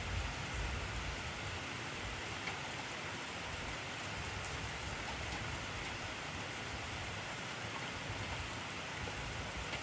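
Intense rainfall, a dense and even hiss of rain on surfaces that keeps a steady level, with a low rumble in the first second.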